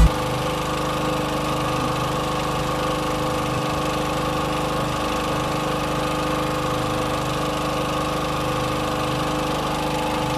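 A boat engine running steadily at an even, low speed, with a constant hum that does not rise or fall.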